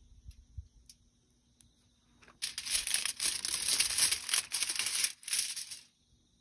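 Wrapping crinkled and rustled by hand for about three and a half seconds, starting sharply about two and a half seconds in, as a baked sweet potato is handled to check it.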